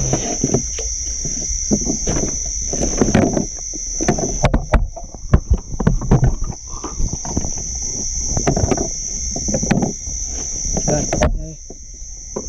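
Irregular splashing and sloshing of water, over a steady high-pitched insect drone that breaks off briefly twice.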